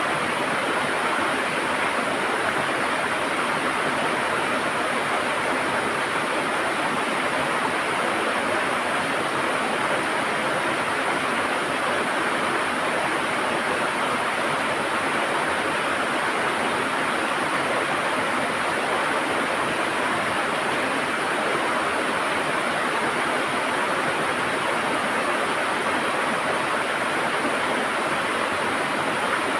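River water gurgling and rushing over rocks, a steady unbroken rush.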